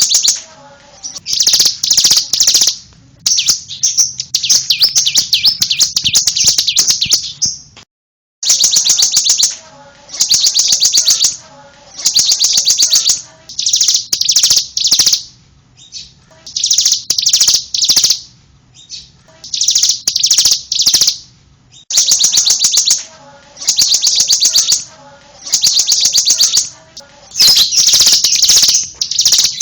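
Bar-winged prinia (ciblek) singing: loud bursts of rapid, high chattering notes, each lasting a second or so, repeated over and over with short pauses between.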